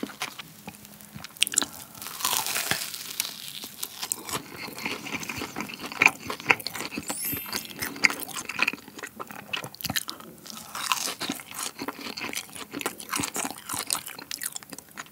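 Close-miked eating of fried chicken coated in basil pesto: bites and chewing with many sharp crackles. Near the start a gloved hand pulls a piece of the chicken apart.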